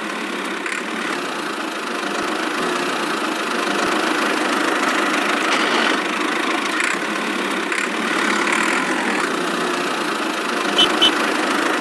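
Steady engine running sound, even and unbroken, with two short high beeps close together near the end.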